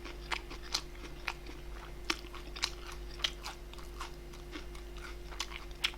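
A person chewing food close to the microphone: irregular soft mouth clicks and small crunches, about two a second.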